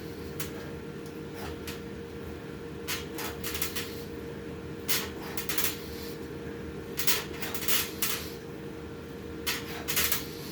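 A person doing pull-ups: short, sharp, hissy sounds, mostly in close pairs about every two seconds, over a steady hum.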